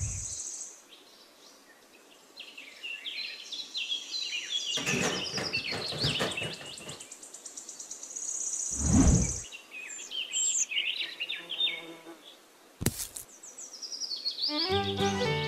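Birds chirping in quick high strings, with a high insect-like buzz. Handling noise from the plastic bowls being set into sand: scraping in the middle and one loud thump. Music comes in near the end.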